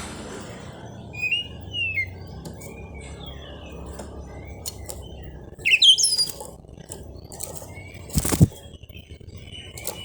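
Oriental magpie-robin (kacer) singing: separate short whistled phrases that sweep up and down in pitch, the loudest about six seconds in. A short loud rustling burst comes about eight seconds in, over a steady low background noise.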